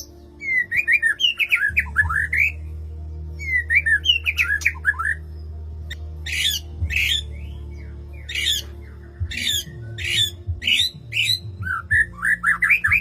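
White-rumped shama (murai batu) calling aggressively: bursts of quick rising chirps alternate with a run of harsh squawking calls at roughly two a second. This is the agitated 'koar koar' kind of calling used as a master recording to provoke other birds to sing.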